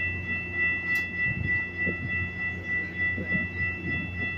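Metrolink commuter train standing at the platform: a steady low drone from the train, with a steady high-pitched tone sounding over it.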